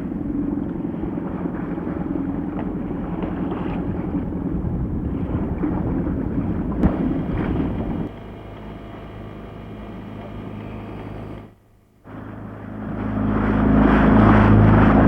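Motorboat engine running steadily with wind rushing on the microphone. A single sharp crack comes about seven seconds in. The sound drops abruptly about eight seconds in and almost vanishes briefly near twelve seconds, then the engine hum returns louder near the end.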